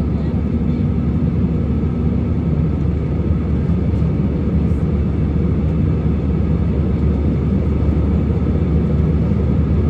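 Steady airliner cabin noise in flight: a low, even rush of engine and airflow noise. A low steady hum on top of it fades out about two and a half seconds in.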